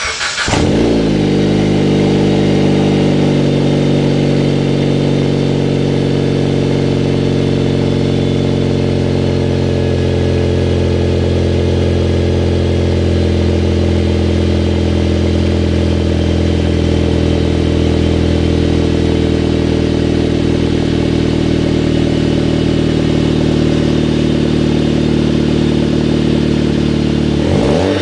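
Exhaust of a 2008 Dodge Caliber SRT-4's turbocharged 2.4-litre four-cylinder on a cold start, through a 3-inch downpipe with a high-flow cat and an aftermarket rear muffler section. It fires at the very start, flares and settles within about a second into a steady fast cold idle, then revs up near the end.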